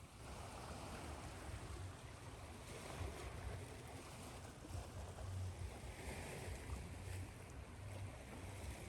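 Ocean surf washing continuously, a steady hiss of water with a low rumble that swells and ebbs, blended with white noise.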